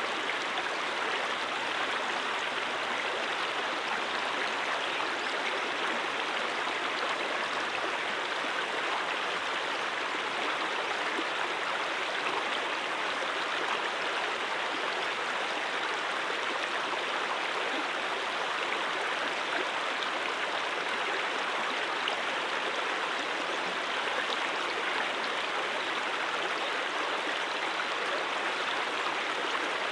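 Mountain stream flowing over rocks: a steady, even rushing of water.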